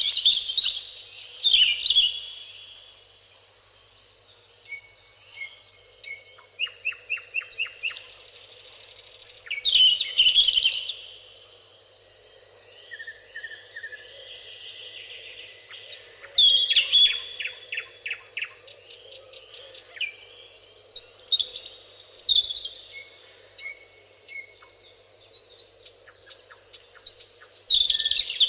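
Several songbirds singing and calling together, with a loud song phrase coming back every five to eight seconds and rapid chirping trills in between. A steady high-pitched insect drone runs underneath.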